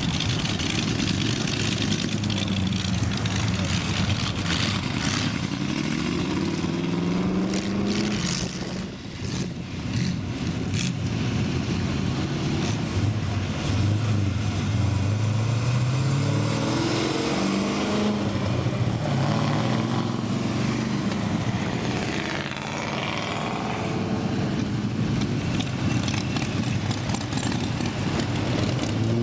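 Classic cars driving past one after another, each engine note rising as the car accelerates away; there are several such passes.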